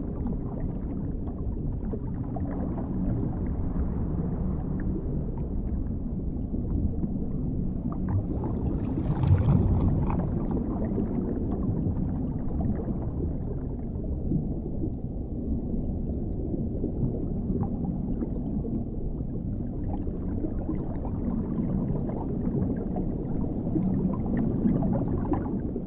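Underwater sound ambience: a dark, muffled, steady rumble of water, mostly low in pitch, with a brief swell about nine seconds in.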